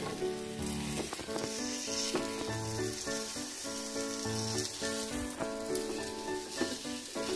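Egg omelette sizzling gently in oil in a nonstick frying pan on a low flame. A soft instrumental melody plays over it.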